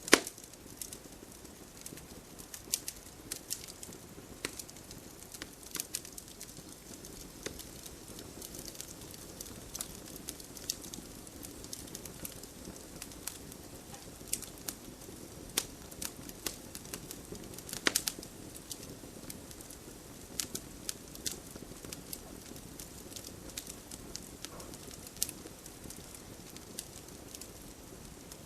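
Campfire crackling, with irregular sharp pops and snaps over a soft steady background hiss.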